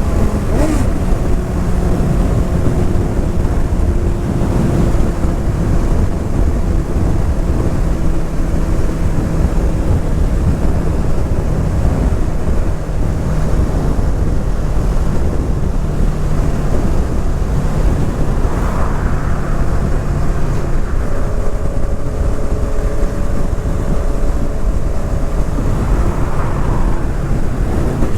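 Honda CBR 650R's inline-four engine and exhaust running at road speed under heavy wind rush on the microphone. The engine note holds steady for long stretches and shifts in pitch a few times.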